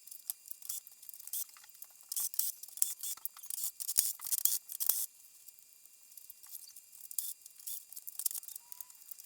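Irregular clicks, taps and scraping of TV parts being handled as a flat-screen LED TV is taken apart, busiest in the first five seconds with one sharp click about four seconds in, then sparser.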